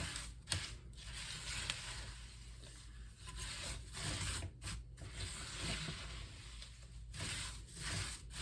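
Spatula folding dry, crunchy chow mein noodles through melted butterscotch and peanut butter in a large bowl: a continuous crinkly rustle and squish with scattered sharp clicks.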